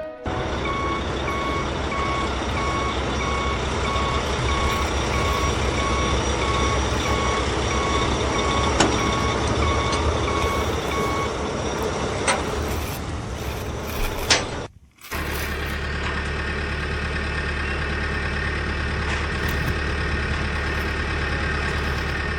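Truck reversing beeper sounding a long run of evenly spaced beeps over a steady engine rumble. The beeps stop about eleven seconds in, a few clicks follow, the sound drops out briefly near fifteen seconds, and then the engine rumble carries on alone.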